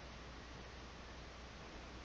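Quiet room tone: a faint steady hiss with a low hum underneath, no distinct sounds.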